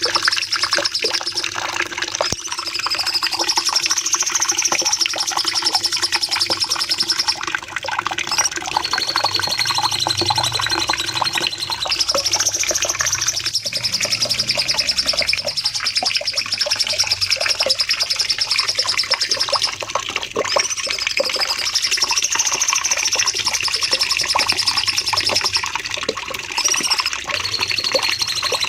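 A cucak cungkok songbird singing long, unbroken bursts of fast, high-pitched trilled notes, the phrases repeating with hardly a pause.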